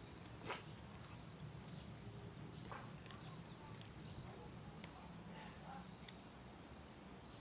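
Crickets chirping faintly in a steady high trill that pulses on and off, with a faint click about half a second in.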